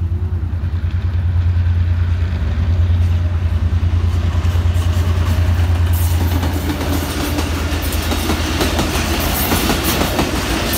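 Pakistan Railways diesel locomotive passing close by: a low, pulsing engine drone that grows louder as it approaches, then from about six seconds in the clatter of the passenger coaches' wheels over the rail joints as the train goes by.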